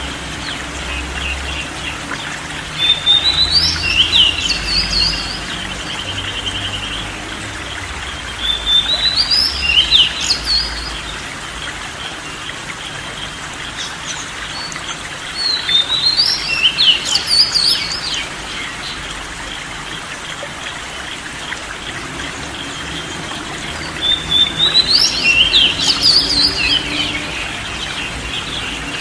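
A songbird singing four short bursts of quick, high chirping phrases, with pauses of several seconds between them, over a steady trickle of running water.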